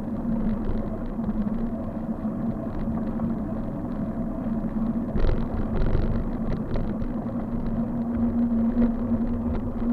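Steady riding noise from a bike on the road: low road rumble and wind with a constant hum and frequent light rattles. There is a harder jolt about five seconds in.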